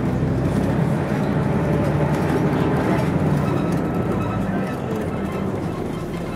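Scania DSC 11.71 six-cylinder diesel of a Scania CN113CLL city bus running steadily under way, heard from inside the bus over road noise; it eases off a little in the second half.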